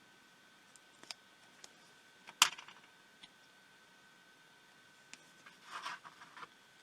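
Small hand tools working on a small plastic device: a few light ticks, one sharp click about two and a half seconds in, and a short scraping, clicking patch near the end.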